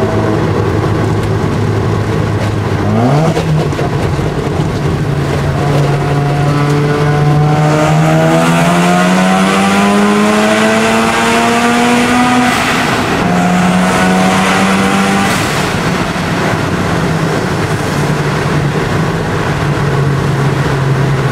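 Mazda RX-7 FD's single-turbo 13B rotary engine heard from the cabin, pulling hard under acceleration: its pitch climbs steadily for several seconds with a high turbo whine above it, then drops at gear changes and settles to a steady drone.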